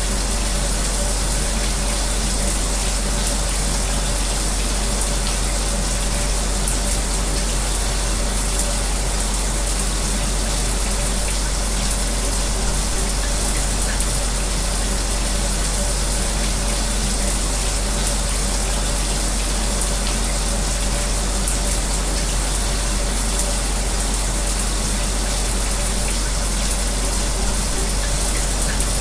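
Shower water spraying steadily, mixed with the even hum of an electric fan.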